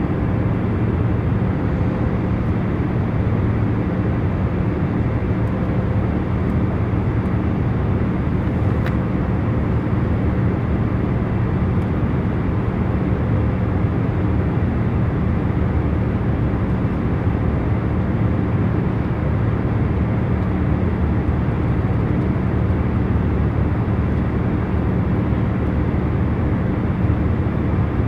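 Steady in-flight airliner cabin noise: a constant low rushing hum of engines and airflow, with faint steady tones underneath.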